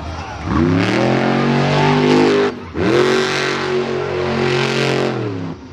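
Monster truck engine revving hard twice, each burst rising in pitch, held for about two seconds, then dropping off.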